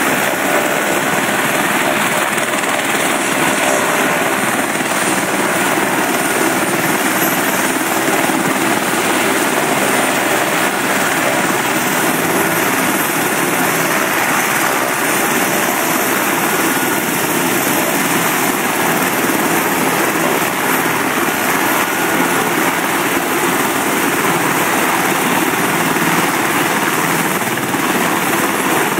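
Bell LongRanger helicopter's turbine engine and rotor running at a steady, loud level.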